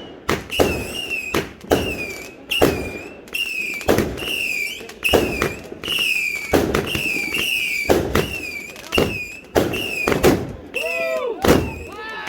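A rapid barrage of fireworks going off, about two sharp bangs a second. Many of the bangs carry a short, high whistle that dips slightly in pitch.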